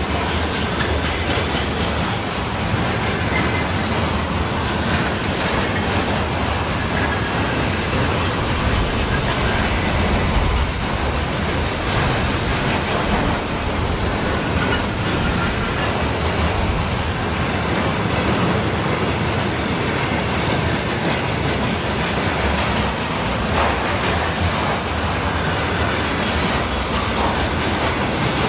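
Freight train wagons rolling past on a freight train hauled by a VL85 electric locomotive, a steady loud noise of wheels on the rails with faint repeated clicks.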